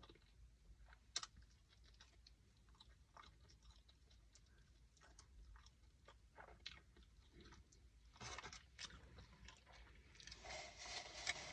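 Faint close-up chewing and crunching of food, many small wet clicks, with a louder, noisier stretch near the end.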